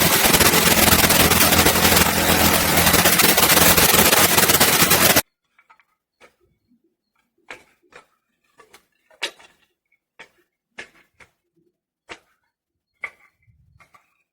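A loud, steady running engine that cuts off suddenly about five seconds in. It is followed by scattered short clicks and chirps.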